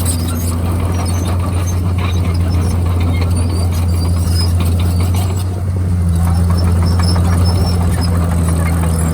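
Komatsu D51PX bulldozer's diesel engine running steadily as a low drone, with scattered high squeaks and clicks over it. A little past halfway the engine note dips briefly, then settles at a slightly different pitch.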